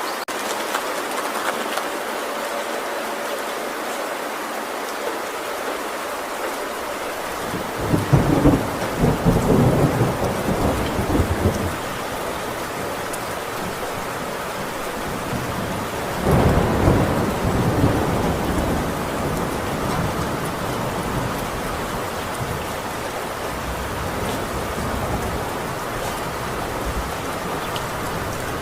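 Heavy rain falling steadily on a metal roof, with two rolls of thunder rumbling through it, the first about eight seconds in and the second about sixteen seconds in.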